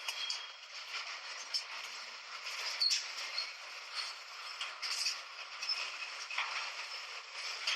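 Train carriage creaking and rattling as it runs, with scattered sharp clicks and short squeaks over a steady noise.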